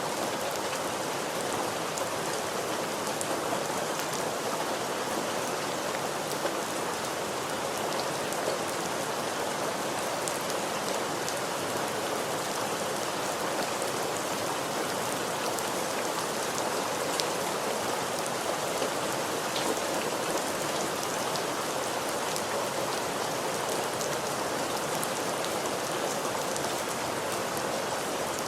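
Steady rain falling, an even hiss of rain on a surface with scattered single drops ticking through it.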